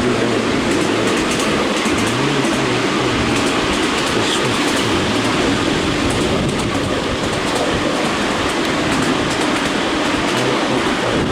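Miniature railway train with a scale Class 43 HST locomotive running along the track, heard from aboard: a steady running noise of wheels on rails, with short clicks over the rail joints.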